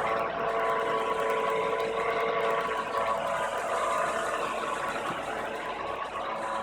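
Rebuilt engine of a 1997 Isuzu NPR truck running steadily.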